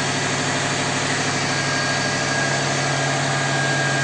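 Subaru Impreza WRX STI's turbocharged flat-four engine idling steadily, with the front bumper off and a newly fitted front-mount intercooler.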